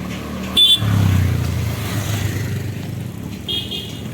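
A motor vehicle passes close by on the road, its low rumble swelling about a second in and slowly fading. Two short high-pitched toots sound, one near the start and one near the end.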